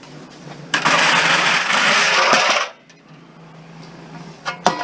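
Loose scrap metal clattering and rattling for about two seconds, then stopping abruptly, with one sharp click near the end.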